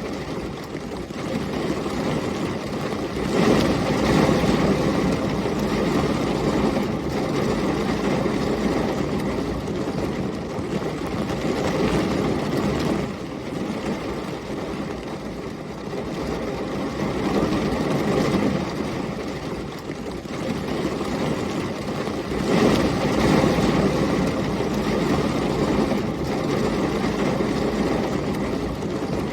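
Heavy rain and storm wind with a deep, steady rush, swelling louder three times: a few seconds in, near the middle, and about two-thirds of the way through.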